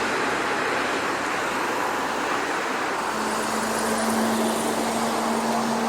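Steady street traffic noise: an even wash of passing vehicles, with a faint steady hum joining about three seconds in.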